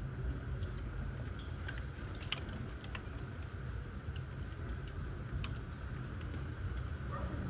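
Thunderstorm rain falling steadily, a constant wash with scattered sharp taps of drops striking nearby surfaces.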